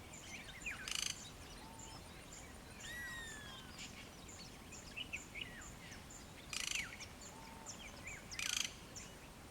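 A faint morning chorus of several bush birds: repeated downslurred whistles and short chirps, with three brief dry rattles about a second in, past the middle, and near the end, over a thin high insect whine.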